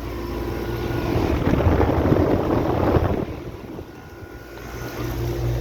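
Outdoor air-conditioner condenser units running with a steady hum, and a rush of air from a condenser fan blowing onto the microphone from about a second in to about three seconds in. The sound dips for a moment before the hum comes back near the end.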